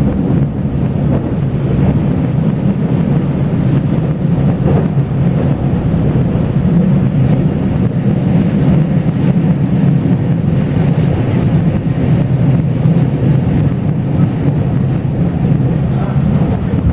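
Taiwan Railway local express train running at speed, heard from inside the passenger car: a loud, steady, deep rumble of the wheels and carriage.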